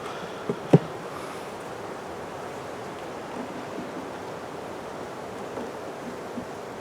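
Wind blowing over the microphone, a steady rush. Two sharp knocks under a second in, the second one loud.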